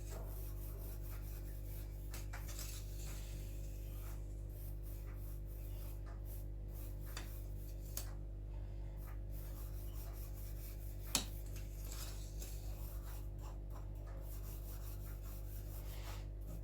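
A spoon scraping and pressing a crushed-biscuit-and-butter cheesecake base flat inside a round ring mould. There is a sharp tap about eight seconds in and a louder one about eleven seconds in, over a steady low hum.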